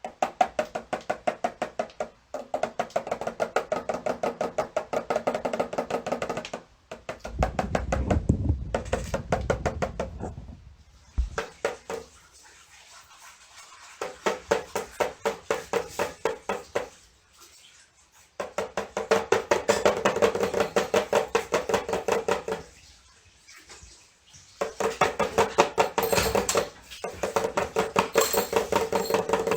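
A small drum struck in quick runs of even strokes, several seconds at a time, with short pauses between runs.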